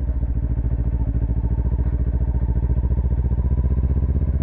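Motorcycle engine running steadily at low revs in first gear on light, constant throttle with no clutch use, as the bike circles slowly in a tight turn.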